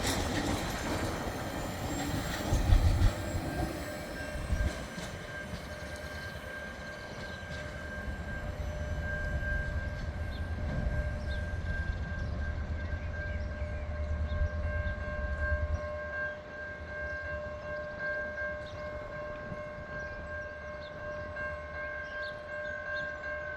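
Freight train wagons rolling past with a low rumble and a few knocks in the first seconds; the rumble fades away about two-thirds of the way through. From about five seconds in, a steady high-pitched tone with several pitches sounds continuously.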